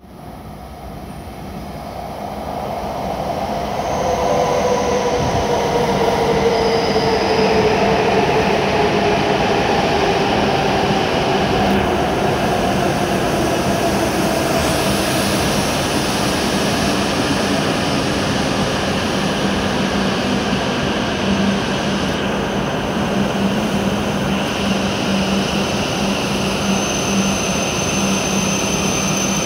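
W7 series Shinkansen train pulling into the platform and slowing. Its sound grows louder over the first few seconds as it approaches, then holds as a steady rumble with a whine that falls in pitch as it decelerates. A thin high squeal starts near the end.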